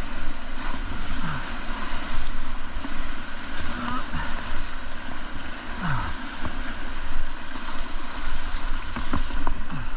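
Rushing whitewater of a river rapid around a kayak, with paddle strokes splashing and wind buffeting the microphone.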